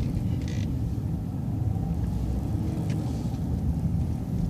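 Cabin sound of an MCO ViewMaster transit bus on the move: a steady low engine and road rumble, with a brief hiss about half a second in.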